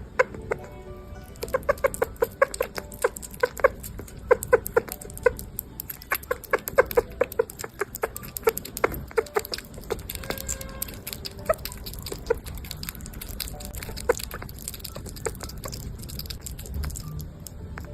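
A small animal giving runs of short, clucking chirps, several a second, in bursts that thin out in the second half.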